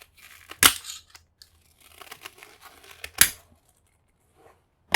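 A hand tool prying and scraping at a steel retaining clip on a brass part, with two sharp metallic clicks, about a second in and again about three seconds in, as the tool slips off or catches the clip.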